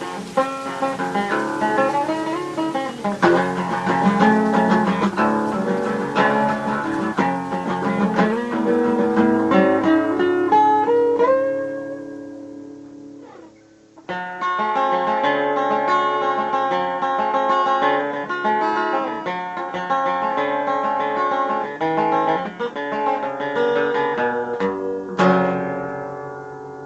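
Solo acoustic guitar improvising in picked notes and chords. About halfway through the playing lets a chord ring and fades almost away, then starts again suddenly. Near the end a struck chord rings out and dies down.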